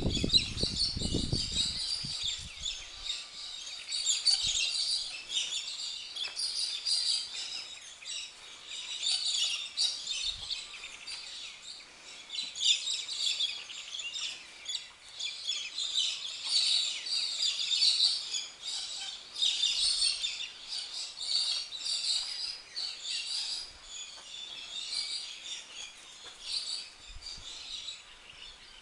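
Many small birds chirping in a dense, continuous chorus, with a brief low rumble in the first two seconds.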